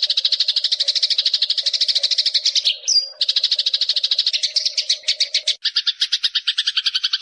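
Eurasian tree sparrow chattering: a fast run of chirps at about ten a second, briefly broken near three seconds in, and lower and fuller from about five and a half seconds in.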